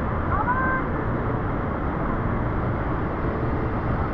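Steady rushing roar of a waterfall, with a short rising high-pitched call about half a second in.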